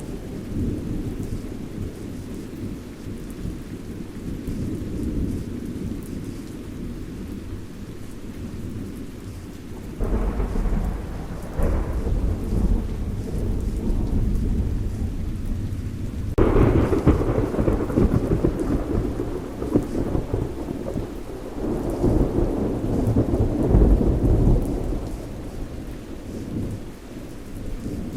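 Thunderstorm with steady rain and low rumbling thunder. A thunderclap breaks about ten seconds in, and a louder one comes at about sixteen seconds, rumbling on for several seconds before it eases off near the end.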